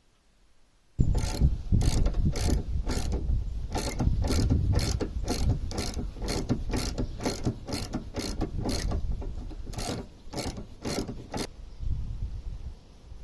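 Ratchet tool clicking at an even pace, about three clicks a second, over a low rumble. It starts about a second in and stops near the end.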